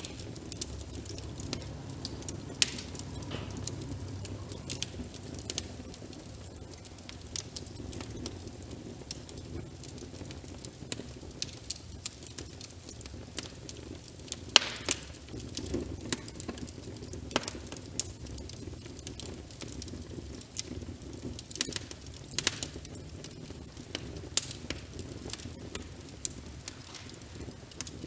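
Wood fire crackling, with sharp pops and snaps at irregular intervals and a few louder ones, over a steady low rumble and the patter of rain.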